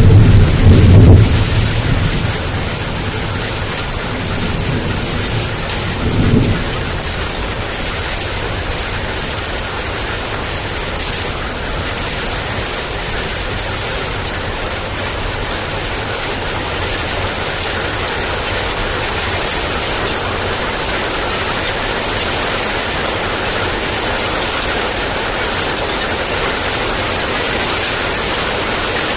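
Heavy downpour of rain, a steady dense hiss, with a roll of thunder fading out in the first two seconds and a shorter low rumble about six seconds in.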